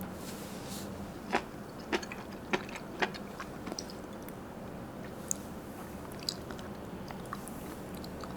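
Four sharp clicks or taps about half a second apart, then a few fainter ticks, over a steady low hum.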